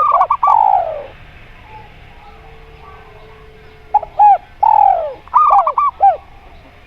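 Doves cooing in two phrases of short arching coos, each with a longer falling note. One phrase comes at the start, the other about four seconds in.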